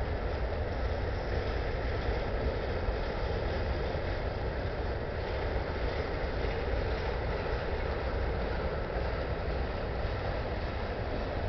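Covered hopper cars of a freight train rolling past, steel wheels on rail making a steady rumble.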